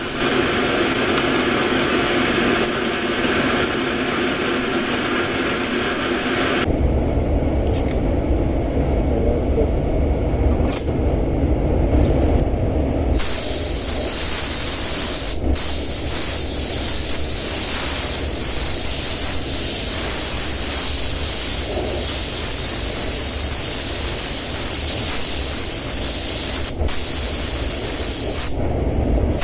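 Air spray gun hissing steadily as paint is sprayed onto a car panel, the noise changing abruptly a few times, with a lower rumble in the first half.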